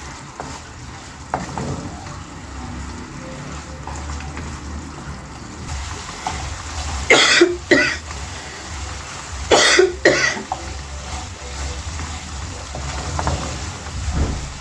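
A person coughing twice, each cough a quick double burst, about two and a half seconds apart.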